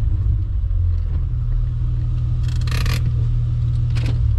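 Supercharged Acura TL's V6 running at low speed, a steady low rumble heard from inside the cabin. About two and a half seconds in there is a short scraping rustle, and a click comes near the end.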